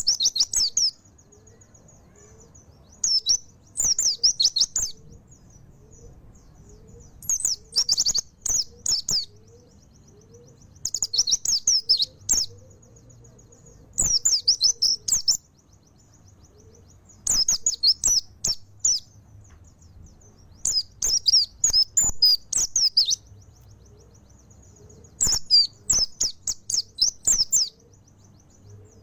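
Mountain white-eye (pleci montanus) singing in full volley: about seven bursts of fast, high warbling chirps, each lasting a second or two and coming every three to four seconds.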